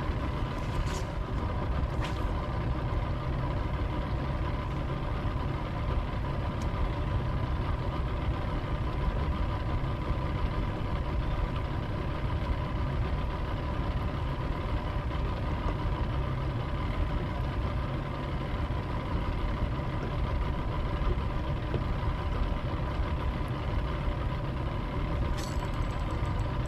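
Boat's outboard motor idling steadily, left running to recharge the boat's battery. A few light clicks come near the start and again near the end.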